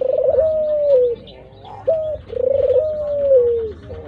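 Ringneck dove cooing: a short note followed by a long, rolling coo that slowly falls in pitch, the phrase repeating about every two and a half seconds.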